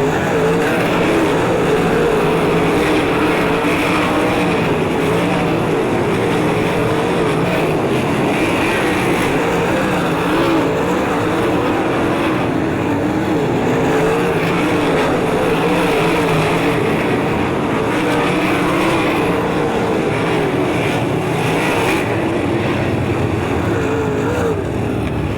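A field of 360 sprint cars racing on a dirt oval, their V8 engines running hard with a pitch that rises and falls continuously as the cars circle the track.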